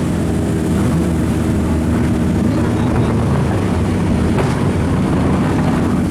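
Turbocharged drift car engine running loudly and steadily, its pitch shifting slightly up and down.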